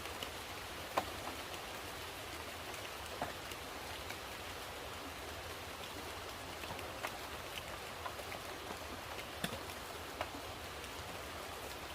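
Steady rain falling, with scattered sharper drops ticking now and then.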